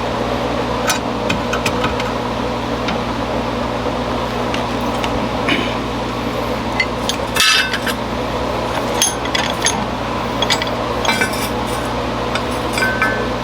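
Scattered, irregular metal knocks and clinks as hot steel is hammered on the anvil to straighten it, about ten strikes with the sharpest about halfway through, over a steady machine hum.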